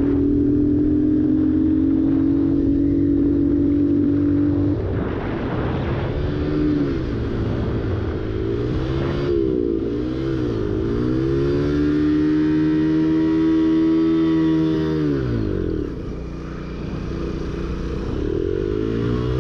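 Motorcycle engine running at a steady pitch for about five seconds, then revving up and down several times. About fifteen seconds in the pitch falls sharply as it slows, and it climbs again near the end.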